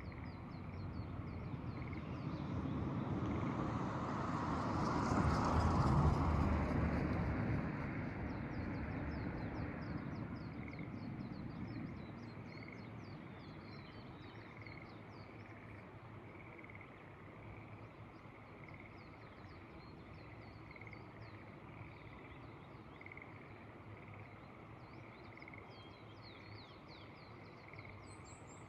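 A vehicle passes on a rural road: its noise builds to a peak about six seconds in and fades away by about twelve seconds. Frogs keep calling in the rice paddies throughout, in short calls about once a second, with faint high insect or bird chirps.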